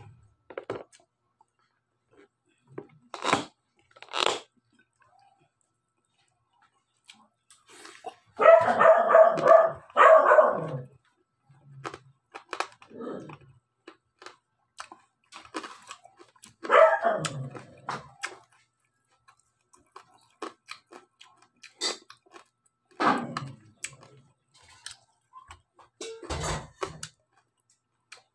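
Intermittent crunching and chewing of crispy deep-fried pork belly (lechon kawali), with sharp crackles now and then. A dog barks in a short run of barks about a third of the way in, and again a little past the middle.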